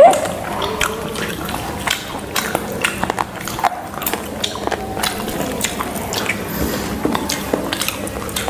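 Close-miked eating of fried chicken lollipops: irregular wet chewing and biting clicks, with no steady rhythm.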